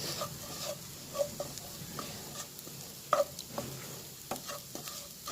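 Spatula stirring and scraping a sautéing mix of grated coconut, onion and green chilli in an oiled frying pan, over a light steady sizzle. The scrapes come at irregular intervals, the loudest a little after three seconds in.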